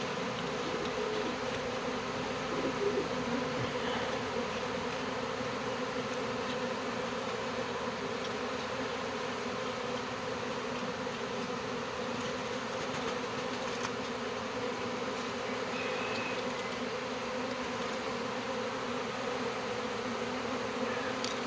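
A large swarm of honey bees buzzing steadily all around, many wings droning together, with some bees fanning at the hive entrance.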